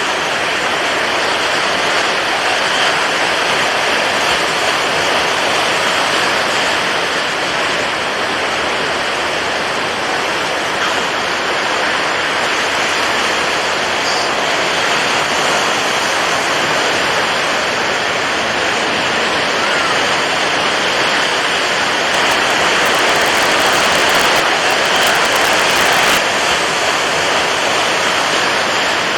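Continuous rushing water, a steady even wash with no distinct breaking waves, growing a little louder for a few seconds about three-quarters of the way through.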